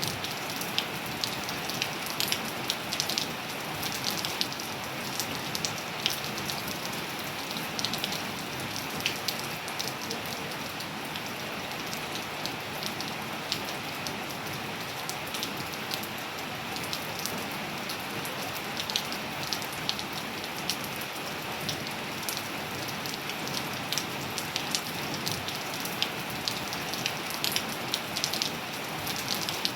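Steady rain falling on surfaces: an even hiss with many distinct individual drops ticking and pattering throughout.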